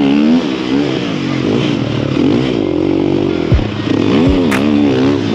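Snow bike's single-cylinder dirt-bike engine revving up and dropping back again and again as it is ridden around a rough track in the snow. A few short knocks sound about three and a half to four and a half seconds in.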